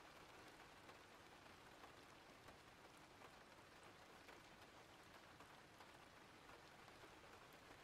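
Faint steady rain: an even hiss of falling rain with scattered light drop ticks.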